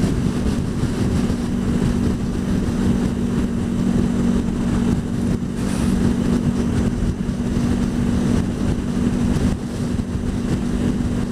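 Honda VFR800 VTEC V4 engine running at a steady cruise, its note holding an even pitch, under the constant rush of wind noise on a helmet-mounted microphone.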